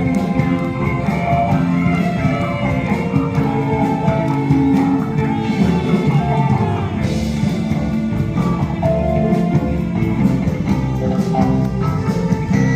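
Live rock band playing, with electric guitar over a steady beat.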